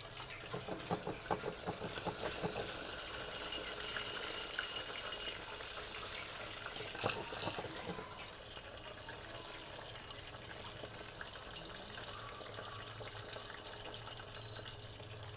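Kitchen tap running into a sink while something is rinsed, with clusters of clattering knocks about a second in and again about halfway through.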